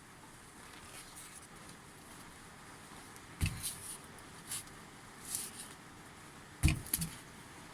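A few scattered knocks and clicks from handling small parts and tools on a workbench. Two dull knocks stand out, one near the middle and a louder one near the end, with lighter ticks between. The motor is not running.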